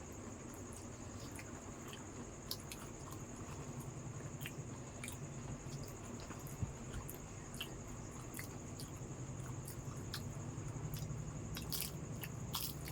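Wet chewing and biting of doi fuchka, crisp puri shells filled with potato and topped with yogurt, as scattered small squishes, crunches and mouth clicks. A steady background hum runs underneath.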